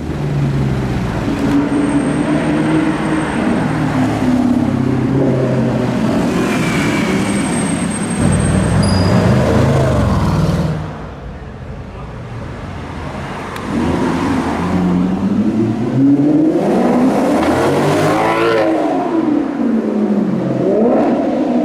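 Maserati GranTurismo V8 engine revving, its pitch climbing and dropping with each rev. It quietens for a few seconds about halfway through, then gives a longer rev that rises and falls near the end.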